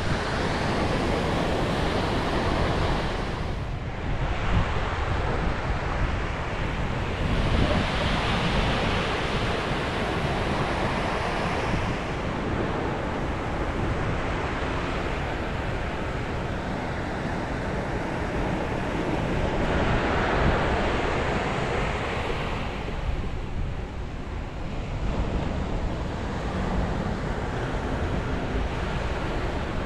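Sea waves breaking on the shore, a continuous wash that swells as each wave breaks, about every several seconds, with wind rumbling on the microphone.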